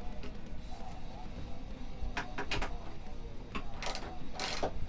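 Several sharp metallic clicks and knocks from hand tools working on a snow bike's drive chain, coming in a cluster in the second half, over faint background music.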